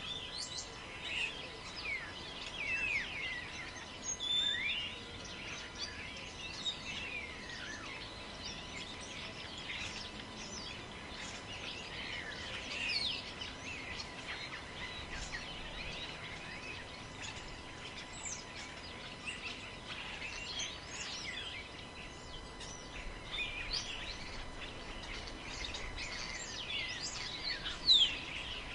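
Several birds chirping and calling, short overlapping calls throughout over a faint steady hiss, with one louder sharp call near the end.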